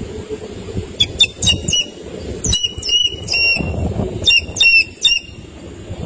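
A bird calling in short, sharp, high notes, in three quick bursts of about four notes each, over a low rumbling background noise.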